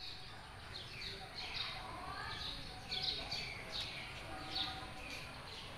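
Small birds chirping: many short, falling chirps at irregular intervals, over a faint low rumble.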